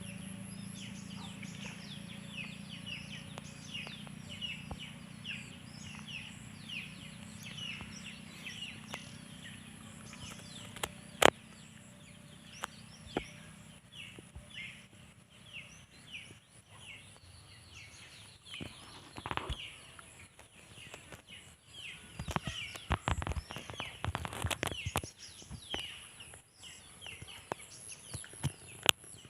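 Small birds chirping: short, high, downward-sliding chirps repeated about twice a second. A low steady hum runs under the first half. Scattered sharp clicks and knocks cut in, the loudest a single crack about eleven seconds in, with a cluster of them past twenty seconds.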